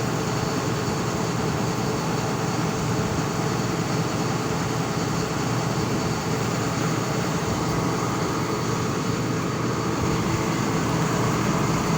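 An engine running steadily, a constant mechanical hum with no change in pace.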